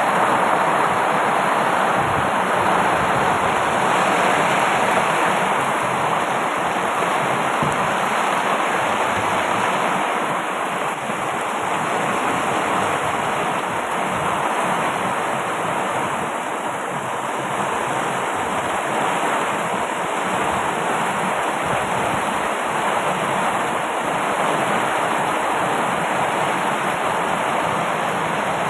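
Heavy rain pouring down in a steady, loud rush, driven by strong wind.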